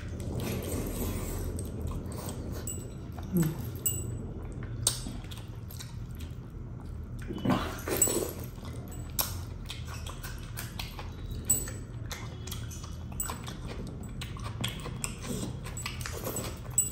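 A man chewing and smacking his lips as he eats rice and fish curry by hand, with wet mouth clicks scattered throughout and a few louder smacks.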